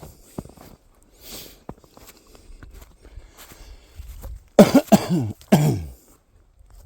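A man coughing: a loud fit of several harsh coughs about two-thirds of the way through, with quieter breaths and soft footsteps in snow before it.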